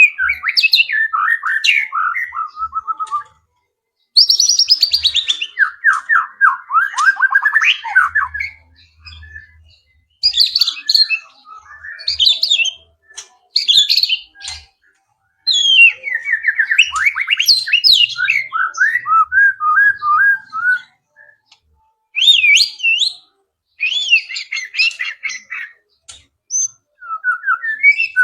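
White-rumped shama (murai batu) singing a varied song: loud whistled phrases and quick runs of falling notes, with short pauses between phrases.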